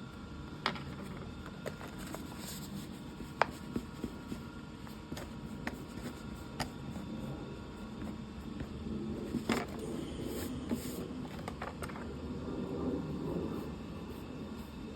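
Steady low room hum with scattered sharp clicks and taps, irregularly spaced, the loudest about three and a half seconds in and another near ten seconds.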